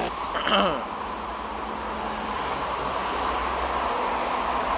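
Steady rush of highway traffic as heavy vehicles pass close by, mostly tyre and engine noise.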